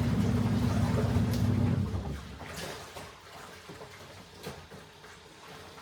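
Washing machine motor humming through the wash, cutting out about two seconds in; water sloshes and trickles in the tub during the pause, and the motor starts up again at the very end, as the wash cycle alternates.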